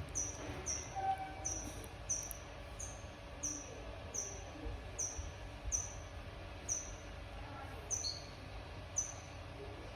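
Young bird chirping: short, high, downward-sliding cheeps repeated steadily about every two-thirds of a second, typical of a nestling begging for food, with a few lower-pitched cheeps near the end.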